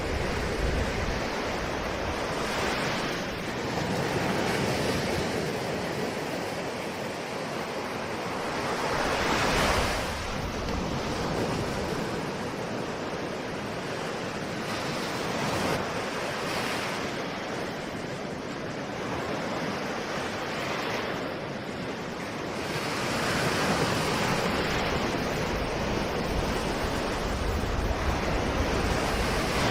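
Ocean surf: waves breaking and washing in continuously, the rush swelling and easing every few seconds with a louder break about ten seconds in, over a low wind rumble.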